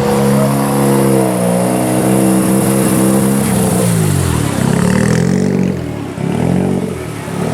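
Car engine running with a steady note, then its pitch drops and climbs again twice in the second half.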